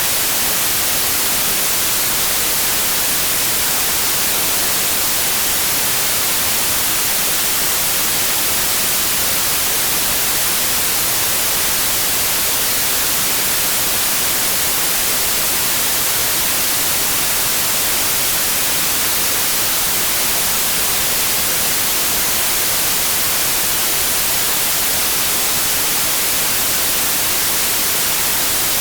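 Steady white noise: an even, unbroken hiss, strongest in the high frequencies, played as a sleep aid for colicky babies.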